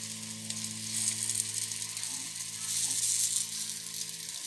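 Litti-baati dough balls sizzling in oil in the cups of an appe pan while they are turned over one by one, with a low steady hum underneath.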